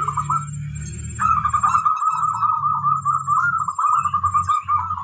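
Zebra dove (perkutut) singing: a long run of quick, short notes begins about a second in, after a brief phrase at the start. A steady low hum runs underneath.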